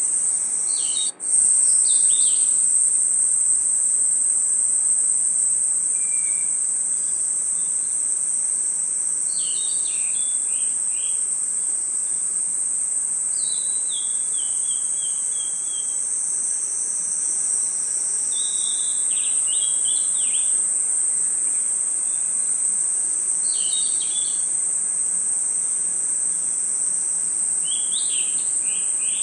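Night insects, crickets among them, trilling in a steady, high, continuous chorus, with short clusters of higher chirps breaking in every few seconds. The sound cuts out for a moment about a second in.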